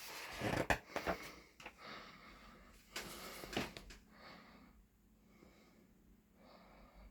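Rustling and handling noise with a few sharp clicks, then a person breathing close to the microphone.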